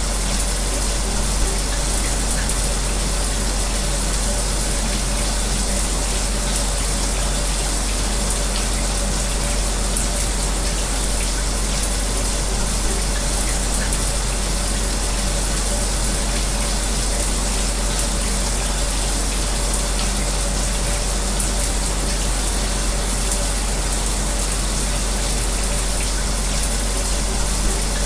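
Shower running with a fan on: a steady hiss of water spray over a steady low hum, unchanging throughout.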